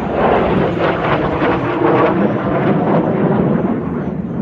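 Kawasaki T-4 jet trainers' turbofans roaring in a low pass, the rumble swelling to its loudest around the middle and easing off near the end.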